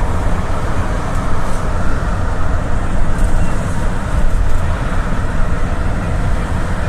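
GAZelle City minibus driving along, heard from inside the cabin: a steady low rumble of engine and road noise.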